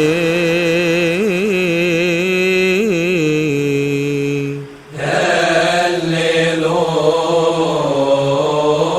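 Slow melismatic chant with long held, gently wavering notes. It breaks off briefly about five seconds in, then resumes with a fuller, richer melody.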